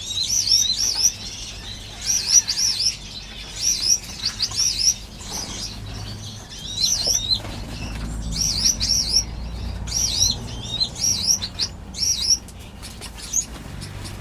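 A crowd of small aviary finches chirping in quick clusters of short, high calls that repeat about every second, with wings fluttering.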